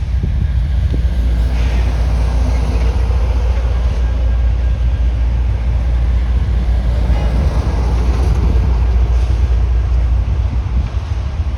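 Train running: a steady, loud low rumble with a diesel engine drone.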